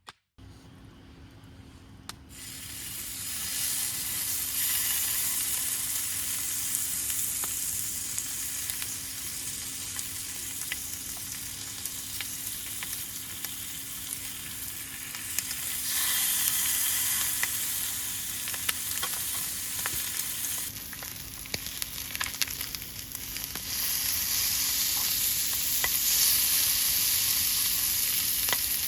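Food sizzling as it fries in a pan, coming in about two seconds in and getting louder, with small crackling pops throughout and a faint steady hum underneath.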